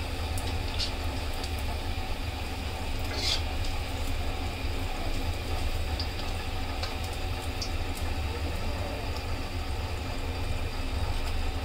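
Pakoras deep-frying in hot oil as they brown: a steady sizzle with a few faint pops, over a low rumble.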